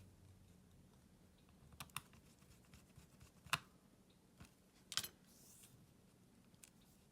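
A few sharp small clicks and taps over faint room tone, the loudest two about three and a half and five seconds in: small tools and phone parts being handled while taking apart a smartphone.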